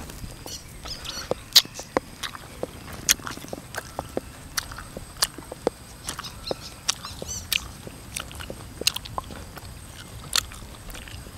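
Close-up chewing of crisp unripe green mango slices: a run of sharp, irregular crunches and wet mouth clicks.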